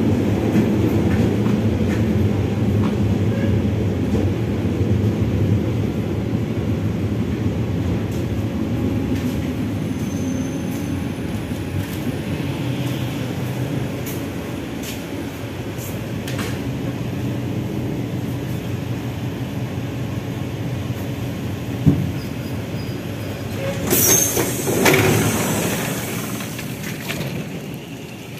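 Passenger train running, heard from on board: a steady rumble of wheels on rail that slowly fades as the train slows. A sharp knock about 22 seconds in, a loud hiss a couple of seconds later, and a drop in level near the end.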